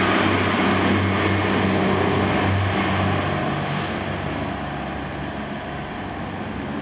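Diesel Pacer railbus pulling away. Its underfloor engine runs with a low steady hum over wheel-and-rail rumble, and the sound fades gradually as the train draws off, with a short hiss a little past halfway.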